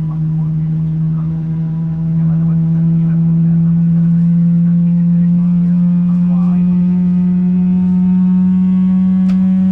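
Boeing 777-300ER's GE90 jet engine spooling up during engine start, heard from inside the cabin: a steady drone that slowly rises in pitch and gets louder about two seconds in.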